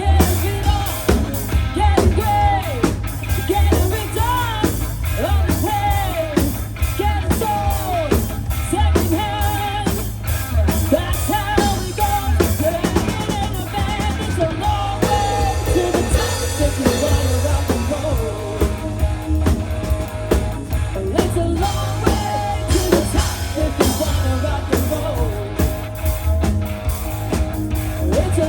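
Live rock band playing: drum kit, electric guitar and bass, with singing.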